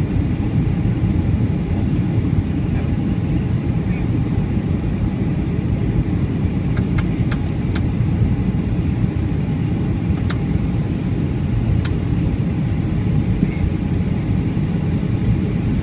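Steady low rumble inside a Boeing 757-200 cabin in flight: engine and airflow noise, with a few faint short clicks about halfway through.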